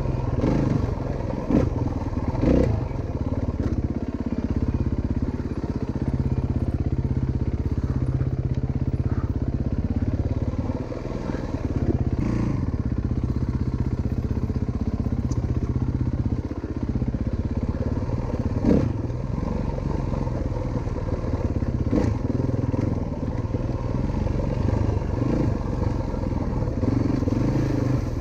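Single-cylinder four-stroke dirt bike engine running steadily on the trail, with a few sharp knocks and clatter over it.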